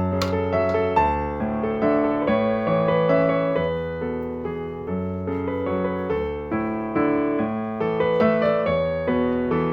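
Background piano music, a steady flow of sustained notes.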